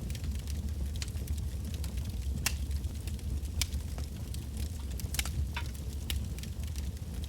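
Wood fire burning, with a steady low rumble of flame and scattered sharp crackles and pops of burning logs, the strongest pops about two and a half, three and a half and five seconds in.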